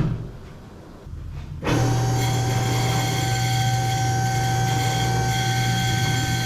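A single knock, then about 1.7 seconds in a machine starts and runs at a steady pitch, a loud low hum with a constant whine on top.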